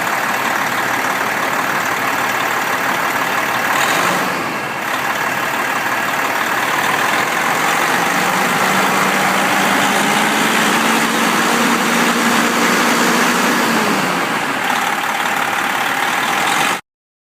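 Semi truck diesel engine running steadily, a dense, even engine noise. A faint hum joins about eight seconds in, rises slightly in pitch, and drops away near fourteen seconds.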